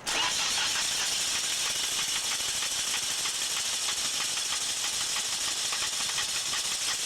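Car engine being cranked by the starter motor without catching: a fast, even rattling hiss that starts suddenly and cuts off after about seven seconds.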